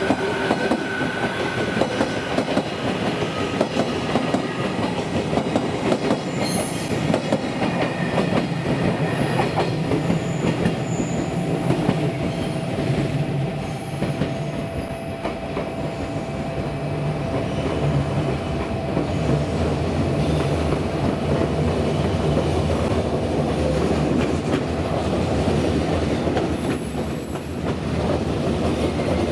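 A train running through station tracks, its wheels clattering over rail joints, with a few brief high-pitched wheel squeals.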